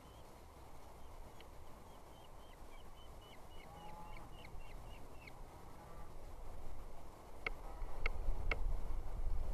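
A small bird calling: a quick series of short, high, falling chirps, about three a second, then three sharp, louder notes near the end. A low rumble grows under them over the last couple of seconds.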